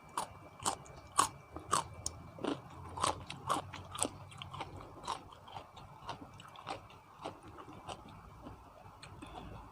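A person chewing crunchy food close to the microphone, in mukbang style: crisp crunches about two a second, thinning out and getting softer over the last few seconds.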